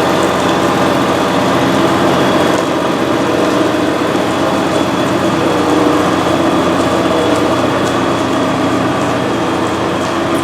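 Freshly rebuilt John Deere 6068 six-cylinder diesel running steadily on a straight pipe with no muffler. It sounds pretty good.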